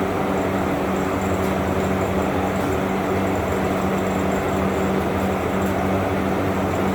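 Steady mechanical drone with a low, even hum that does not change in pitch or level.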